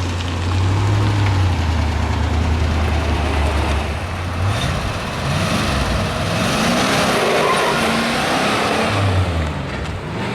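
A 1982 Chevy C30's 5.7-litre small-block V8 runs low and steady, then revs hard from about four seconds in, its pitch climbing as the truck accelerates. A loud rushing noise builds with it and eases off near the end.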